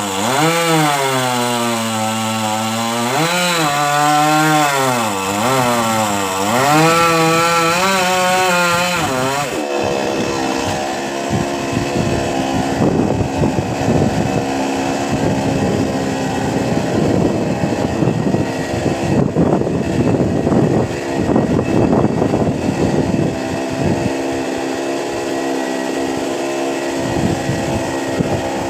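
Chainsaw engine revving up and down several times. About a third of the way in it settles to a steadier, lower pitch with a rough, ragged rasp, as it would when cutting into a coconut palm trunk under load.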